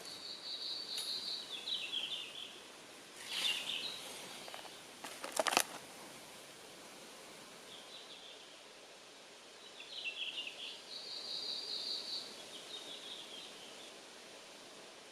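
A songbird singing the same short phrase twice, about ten seconds apart: a high steady note breaking into a lower trill, over a steady forest background hiss. A few sharp knocks about five seconds in are the loudest sound.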